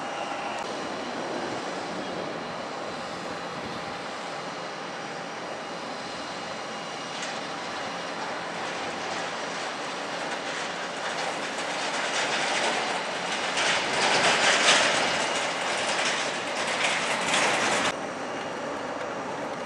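A passing vehicle's steady noise builds over several seconds to a loud peak, then cuts off suddenly near the end.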